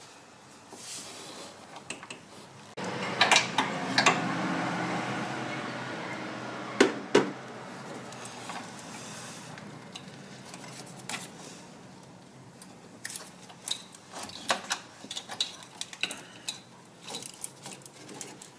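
Metal hand tools clinking and clicking against bolts and brackets in an engine bay as the alternator's mounting bolts are worked loose. There is a denser stretch of scraping a few seconds in, and quick runs of clicks near the end.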